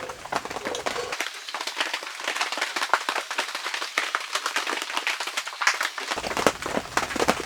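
Rain pattering: many irregular sharp drops ticking on a surface. The low background rumble drops away about a second in and comes back near the end.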